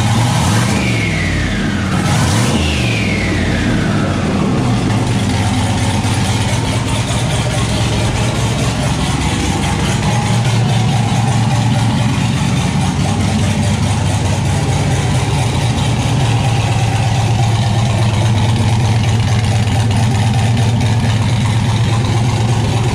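Turbocharged C6 Corvette LS V8 running on its first start after the turbo install, with no downpipe fitted so the exhaust leaves the turbo open. Two throttle blips in the first few seconds each trail off in a falling whine, then the engine settles into a steady idle.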